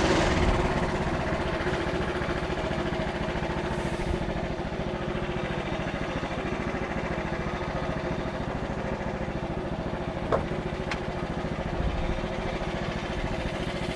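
Frontier OS31 sawmill's petrol engine winding down from a cut, then running steadily at idle. A short sharp click about ten seconds in, with a fainter one just after.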